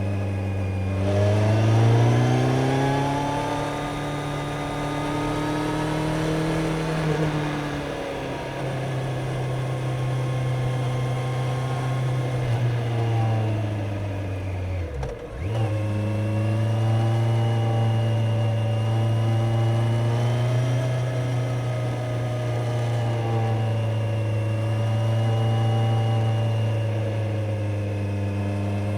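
Kawasaki Z900 inline-four motorcycle engine running under way. It revs up about a second in and eases back around eight seconds. Halfway through the revs drop briefly and pick up again, then it holds a steady cruising note.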